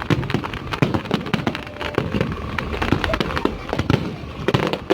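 Fireworks display going off: a dense, continuous run of bangs and crackles, many per second.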